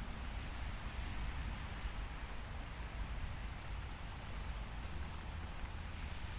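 Steady light rain falling on a city street: an even hiss with scattered faint drop ticks, over a low rumble.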